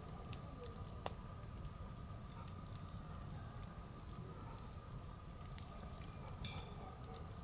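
Wood bonfire crackling, with scattered small pops, one sharper pop about a second in and a brief hiss near the end, over a low steady rumble.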